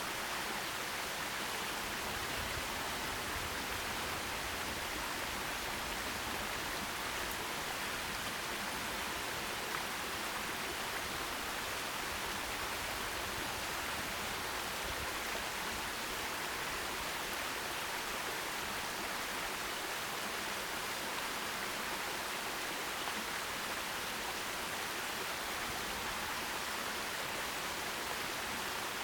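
Forest stream running over rocks: a steady, even rush of water with no change in level.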